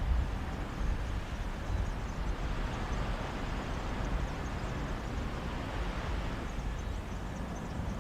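Mediterranean sea waves washing onto a beach, with a sea breeze. It is a steady wash of noise over a low rumble, with no separate breaking wave standing out.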